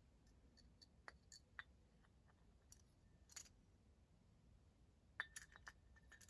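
Faint, scattered light clicks and clinks of small parts being handled, with a quick cluster of them about five seconds in.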